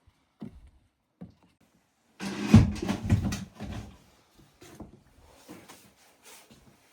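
Objects being handled: a dense run of knocks and clatter about two seconds in, followed by scattered lighter knocks.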